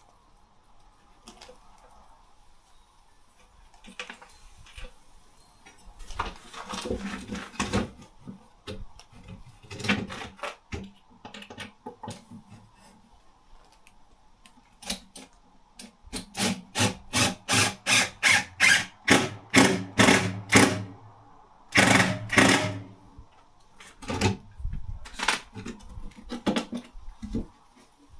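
Woodworking on branch wood and timber scraps with hand tools: scattered scrapes and knocks, then a run of quick rhythmic strokes, about two or three a second, and a short dense burst just after.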